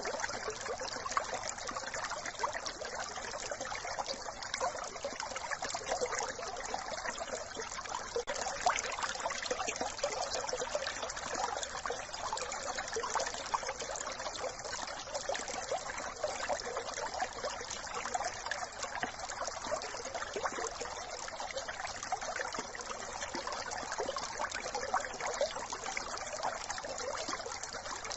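A brook babbling and trickling steadily over stones, an even rush of running water.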